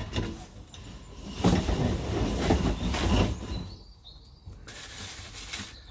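Parts and packaging being handled during an unboxing: rustling and rubbing of tubing and wrapping, loudest through the middle and quieter towards the end.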